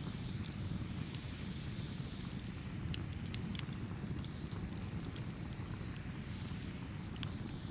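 Wood fire burning with a steady low rumble and frequent sharp crackles and pops, a cluster of louder pops about three seconds in.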